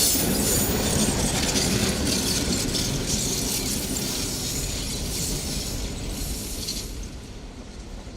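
Train rolling past on the track: wheel clatter and clicks over the rails with some high wheel squeal, fading steadily as the train moves away.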